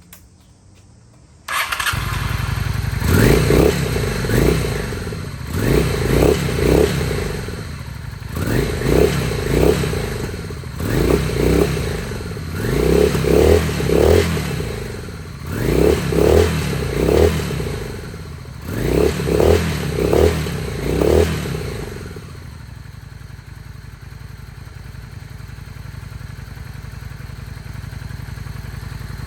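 Honda Steed 600's V-twin engine starting about a second and a half in, then blipped on the throttle over and over in quick double and triple revs for about twenty seconds, then settling to a steady idle.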